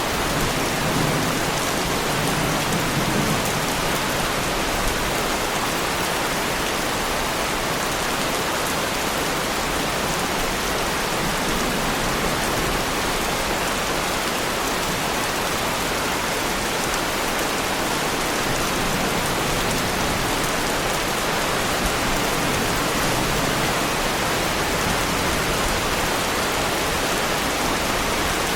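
Heavy rain falling steadily on a car, a Lamborghini Huracán, as an even, unbroken hiss of drops.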